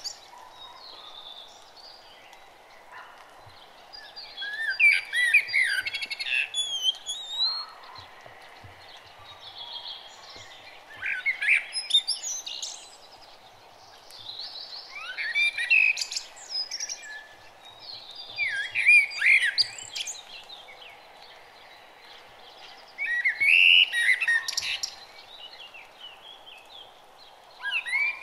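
Songbird singing in short, quick chirping phrases that come every few seconds, over a steady background hiss.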